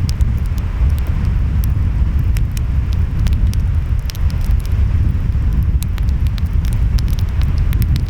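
Wood fire crackling, with many small irregular pops, over a steady low rumble of waves and wind.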